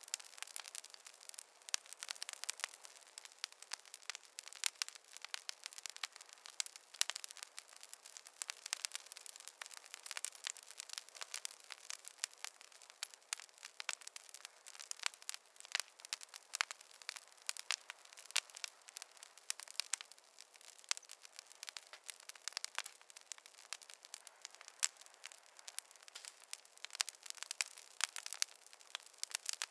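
Wood fire crackling: a dense, irregular run of sharp pops and snaps from burning logs, with no low rumble.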